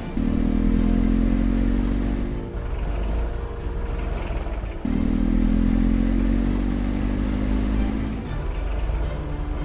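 A vehicle engine running and revving in two long stretches, its pitch creeping up a little in each, with a deep rumble underneath.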